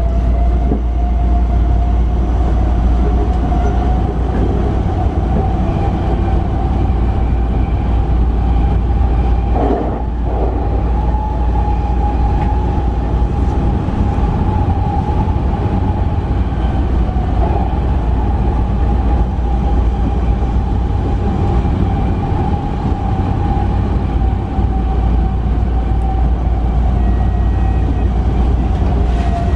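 Sotetsu electric commuter train running between stations, heard from inside the car: a steady rumble of wheels on rails with a steady whine that rises a little in pitch and then holds.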